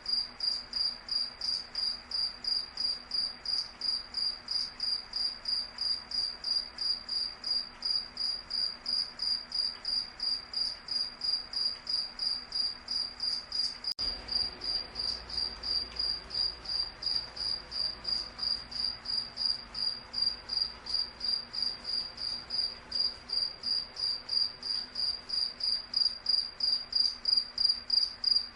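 A cricket chirping steadily, one high-pitched chirp repeating evenly about two to three times a second.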